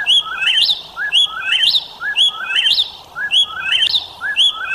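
Whip-poor-will singing its whistled three-note "whip-poor-will" song, the phrase repeated about once a second, five times over.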